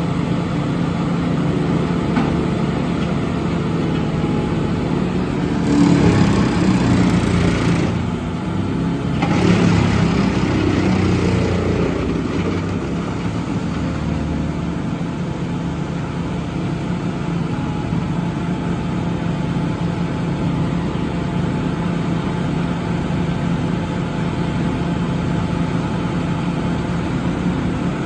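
Western Star truck's diesel engine idling steadily, with two louder surges about six and about nine and a half seconds in.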